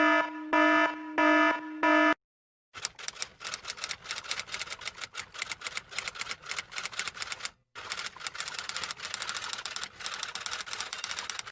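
Sound effect of an electronic alarm-style beeper sounding four short pulses, then rapid, uneven clicking like fast typing on a typewriter or keyboard, with one brief pause partway through.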